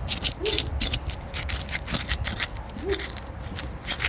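Asphalt roof shingle's adhesive seal being pried and broken loose: a run of sharp crackling snaps and scrapes as the sealant strip tears free, pulling granules off the shingle below. A short low call sounds twice in the background.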